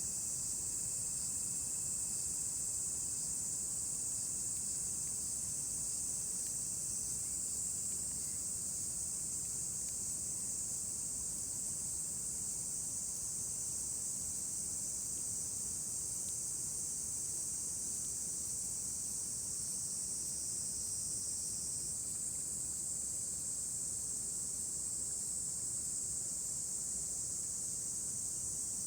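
A chorus of insects on a summer evening, a steady high-pitched shrill that goes on without a break, over a low, even background rush.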